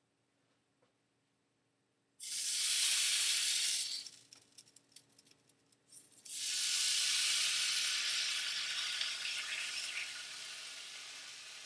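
Bacon strips sizzling as they go into a hot skillet: the sizzle starts suddenly about two seconds in, breaks off into scattered crackles, then starts again about six seconds in and slowly fades.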